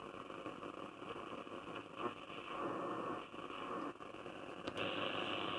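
Shortwave static and hiss from a Grundig Satellit 3400 world receiver's loudspeaker, with no station clearly coming through.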